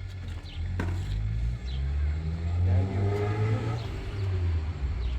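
A motor vehicle's engine running, a loud low rumble.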